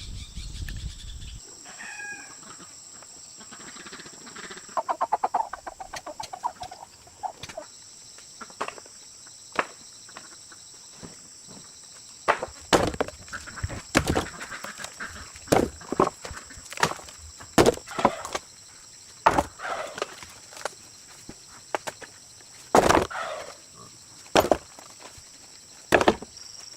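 Chickens clucking, with a fast run of clucks about five seconds in. Through the second half come many sharp knocks and taps.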